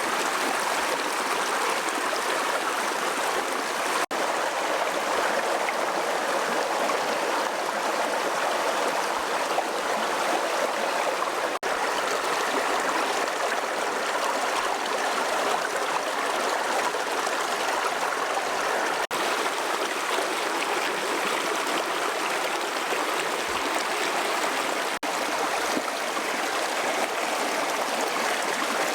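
Steady rushing and trickling of a mountain stream, broken by a few momentary dropouts.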